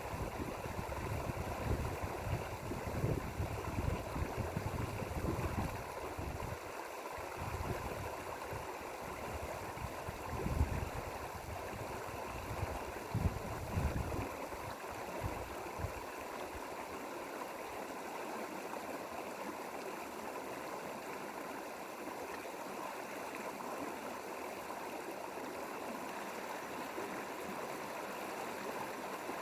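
Mountain stream flowing over rocks, a steady rushing of water. Irregular low rumbles in the first half, likely wind on the microphone, die away about halfway.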